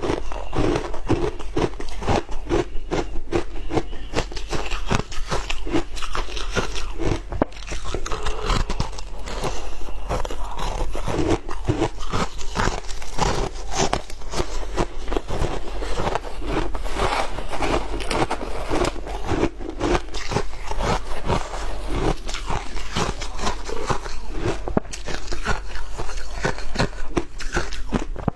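Shaved ice being bitten and crunched between the teeth: a rapid, unbroken run of crisp crunches.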